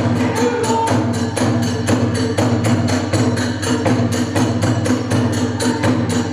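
Hiroshima kagura accompaniment: drums and hand cymbals beating a fast, even rhythm under a held flute line.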